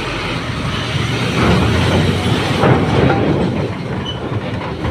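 Heavy tractor-trailer carrying a machine, its diesel engine running under load with a steady rumble and rattling clatter from the rig as it is driven aboard a ferry.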